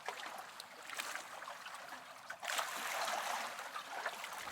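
Water lapping and trickling around a boat, a hissy wash with scattered light clicks that grows louder about two and a half seconds in.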